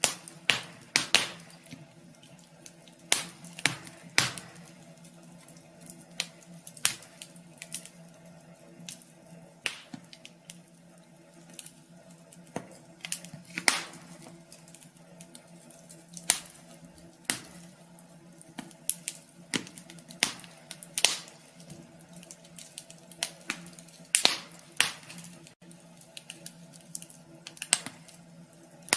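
Wood fire crackling in a wood stove: irregular sharp pops and snaps, some much louder than others, over a low steady hum.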